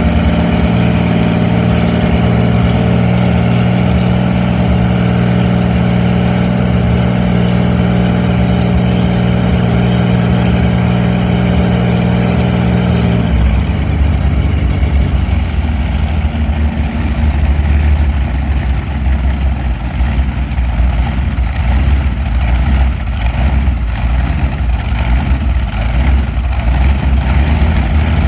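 Allison V-1710 V-12 aero engine running steadily on a stand; about halfway through the pitch drops abruptly as it is throttled back, and it settles into a low, uneven idle.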